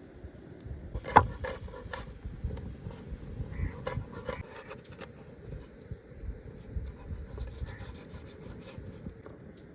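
Irregular rubbing and scraping with scattered clicks and knocks, the sharpest and loudest about a second in.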